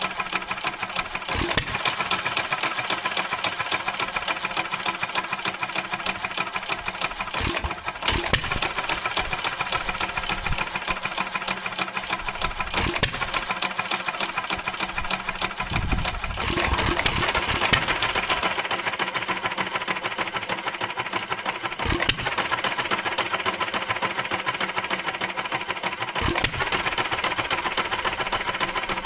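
1926 Stover KA single-cylinder hit-and-miss stationary engine running on its new magneto, with a steady fast clatter and a loud firing stroke every few seconds at uneven gaps, and a short run of strokes about halfway through.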